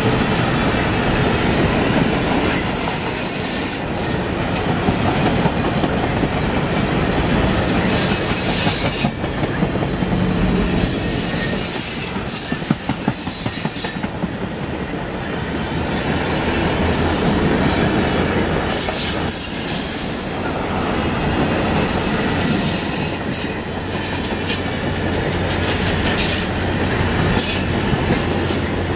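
Stainless-steel passenger cars of a circus train rolling past close by: steady wheel-on-rail rumble with clickety-clack clatter. Short, high-pitched wheel squeals come and go.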